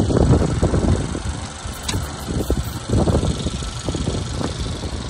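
A car engine idling, under irregular low rumbling.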